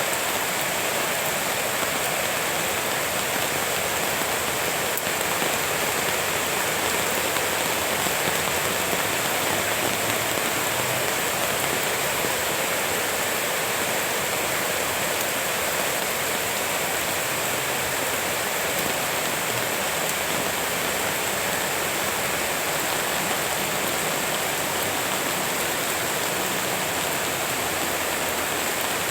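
Steady rain falling, an even hiss of water that holds at one level throughout.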